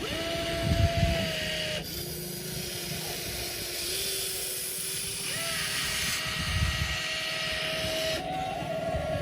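Radio-controlled toy excavator's motors whining, the pitch dropping and rising in steps every few seconds as it switches between movements, with a steady hiss behind it.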